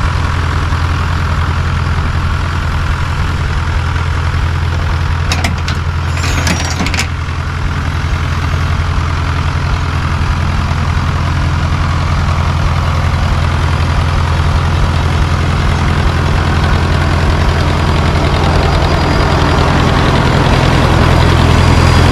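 1954 Fordson tractor engine running at a steady idle. A brief clatter of short, sharp sounds comes about five to seven seconds in, and the engine grows a little louder near the end.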